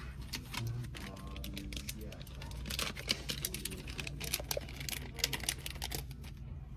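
Quick irregular clicks and light clatter of small parts being handled, over a steady low hum.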